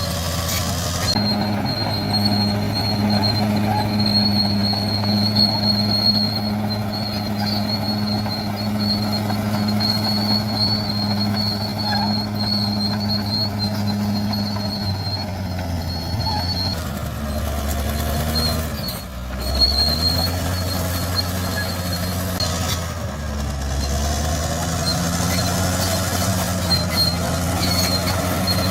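Bulldozer's diesel engine running under steady load, with a thin high whine above it. About halfway through the engine note drops and falters briefly, then climbs back up near the end.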